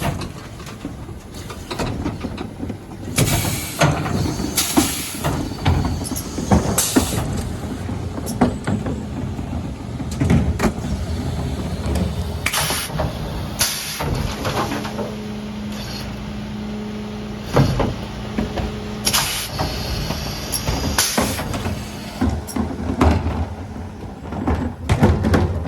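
Mercedes Econic refuse truck at work on a bin round: the engine running with a steady hum for several seconds midway, bursts of air hiss, and repeated knocks and bangs from the Zoeller bin lifters and the Faun Variopress body as wheelie bins are tipped.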